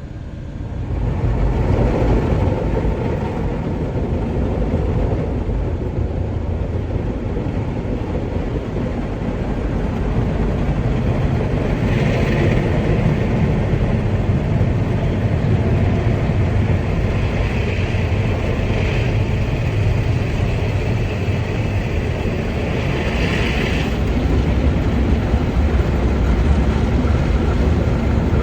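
Automatic car wash heard from inside the car: a loud, steady rush of water and machinery with a deep rumble. Hissing spray passes swell around the middle and again later.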